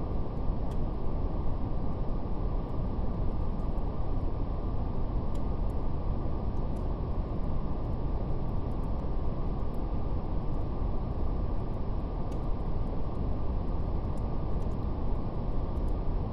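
Steady brown noise, deep and rumbly, with its sound cut off above about 1 kHz. Faint fire crackles tick sparsely over it.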